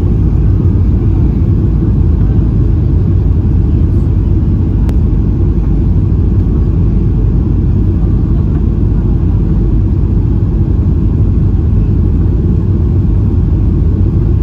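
Airliner cabin noise: a steady low rumble of engines and airflow heard from inside the passenger cabin.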